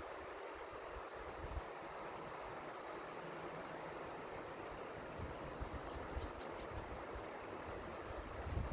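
River water flowing, a steady rushing hiss, with wind rumbling on the microphone in gusts now and then, strongest near the end.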